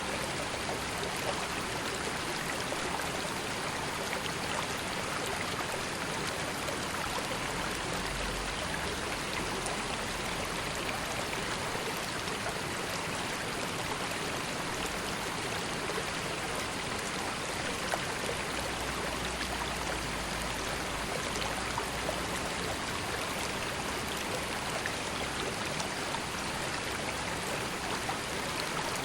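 Calm river water flowing: a steady, even rush of running water.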